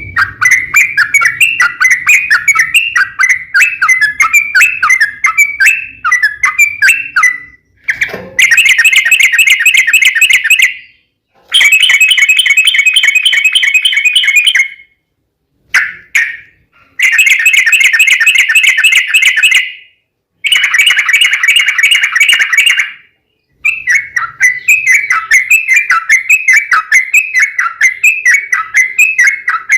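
Yellow-vented bulbul (trucuk) singing a long, fast run of repeated chirping notes. Several dense, buzzy chattering phrases in the middle stop abruptly with short silences between them, before the quick notes resume near the end.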